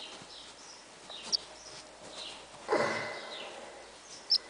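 Featherless nestling bird chirping: two short, sharp high chirps, about a second and a half in and near the end, with fainter high cheeps between. A longer, duller sound comes about three seconds in.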